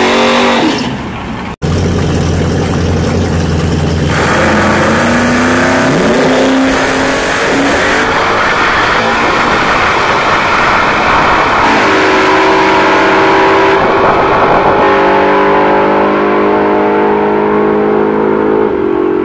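Drag car engine revving hard during a tyre-smoking burnout, then, after an abrupt cut about a second and a half in, drag cars' engines running at full throttle down the strip, the pitch climbing and dropping again through the run.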